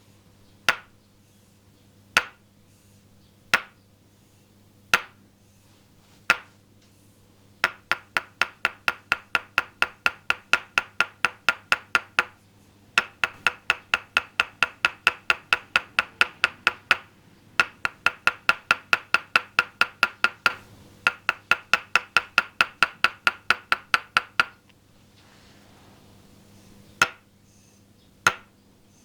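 Toksen massage: a wooden mallet knocking on a wooden peg held against the body, each knock with a short ringing wooden tone. Slow single knocks about a second and a half apart give way to rapid runs of about four knocks a second, broken by brief pauses, and slow single knocks return near the end.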